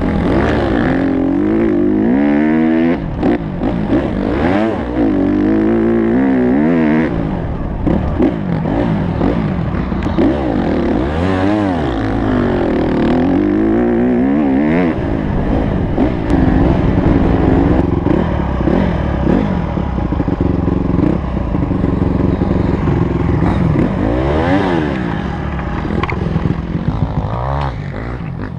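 Honda CRF150 motocross bike's four-stroke single-cylinder engine revving up and dropping back again and again as it is ridden round the track, the pitch climbing through each gear and falling off between. It gets quieter near the end.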